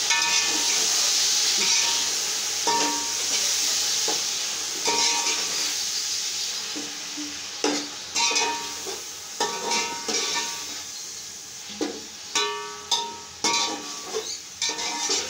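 Chopped tomatoes and onions sizzling in hot oil in an aluminium pot, the sizzle fading as the tomatoes cool the oil. A slotted steel spoon stirs and scrapes through them, knocking and ringing against the pot's sides, with the knocks coming more often in the second half.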